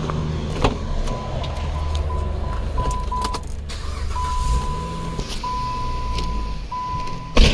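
The 2010 Chrysler Sebring's 2.7 L V6 running at idle while it is checked for a misfire, with a high electronic beep sounding on and off in short dashes. A loud knock near the end.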